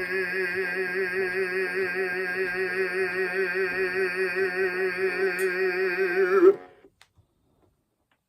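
Gemmy life-size animated Santa's speaker playing the last held note of its song, a long sung note with vibrato over backing music, which stops abruptly about six and a half seconds in.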